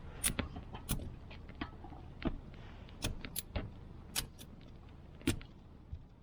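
Irregular sharp clicks and small knocks, about a dozen, over a low steady rumble.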